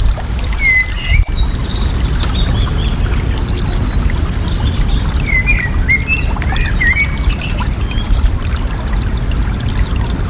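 Water flowing and trickling steadily, with songbirds calling over it in short whistled phrases that come and go several times.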